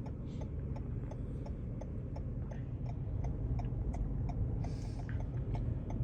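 A vehicle's turn signal clicking steadily, about four ticks a second, inside the cab over a low engine and road hum.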